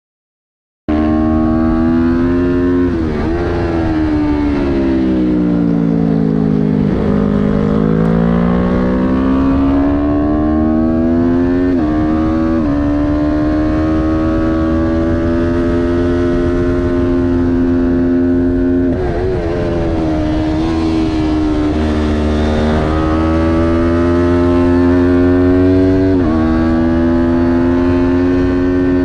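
Kawasaki Ninja 400 parallel-twin engine at racing revs, starting about a second in. Its pitch drops in sharp steps at each gear change, and in one long slide falls and climbs again through a slow section, all over a steady rush of wind.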